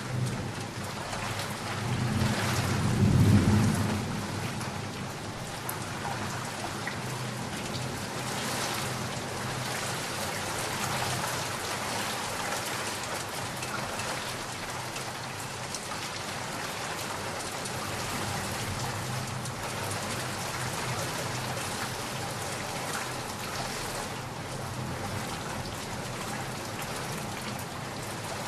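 Steady heavy rain with a roll of thunder that swells and peaks a few seconds in, then fades, leaving the rain.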